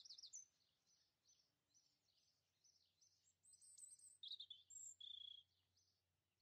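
Faint birdsong: a steady run of soft repeated high chirps, with a few louder chirps and a short whistled note about four to five seconds in.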